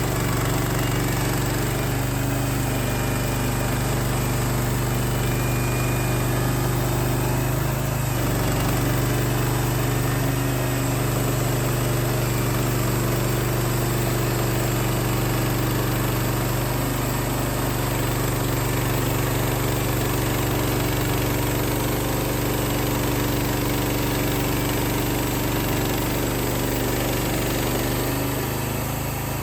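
Small 14 hp engine of a Wood-Mizer LX55 portable band sawmill running steadily, with a brief dip in pitch about eight seconds in and easing off slightly near the end.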